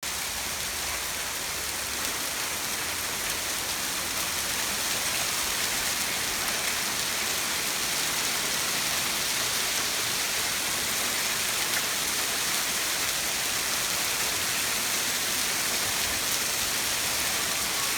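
Hailstorm: hail and rain pelting down in a steady, dense hiss with faint scattered ticks of hailstones striking, growing slightly louder over the first few seconds.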